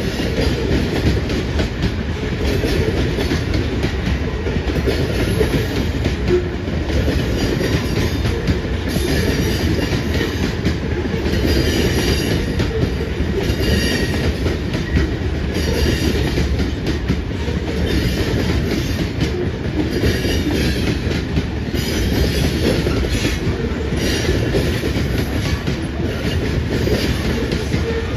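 Loaded covered grain hopper cars of a freight train rolling past: a steady rumble of steel wheels on the rail with rhythmic clickety-clack.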